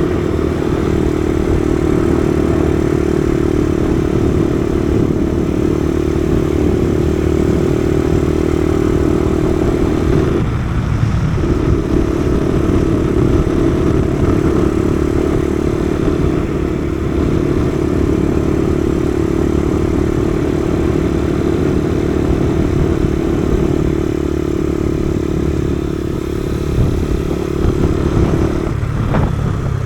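Kawasaki KSR110's single-cylinder four-stroke engine running at a steady pace while riding, with wind rushing past. The engine note breaks off briefly about ten seconds in, then picks up again, and drops away near the end.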